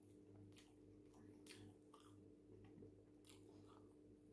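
Near silence: faint chewing and wet mouth clicks from eating a fried chicken wing, over a faint steady low hum.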